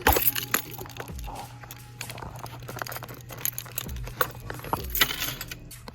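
Product packaging being handled and worked open: scattered clicks, taps and crinkles, with a sharp knock right at the start, over a steady low hum.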